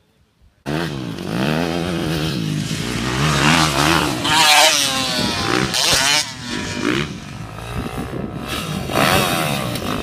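Dirt bike engine revving hard, its pitch rising and falling again and again as the throttle is worked and it goes through the gears. It starts abruptly about a second in, after a moment of near silence, and is loudest around the middle.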